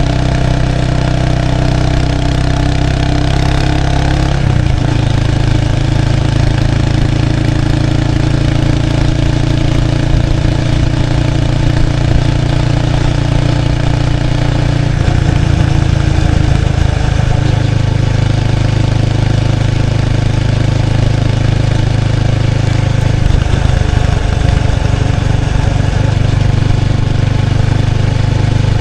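Exhaust note of a 1993 Kawasaki Estrella's 250cc air-cooled single-cylinder engine through its stock muffler, heard up close at the rear of the bike while riding. The engine note holds steady, with changes in engine speed about four or five seconds in, around the middle and again past two-thirds of the way through.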